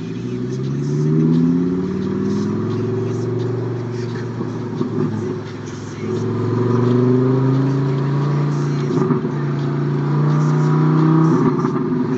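Loud VW Golf Mk4 2.3 V5 five-cylinder engine revving: it climbs in pitch about a second in and holds, drops back, then climbs again and holds at higher revs near the end.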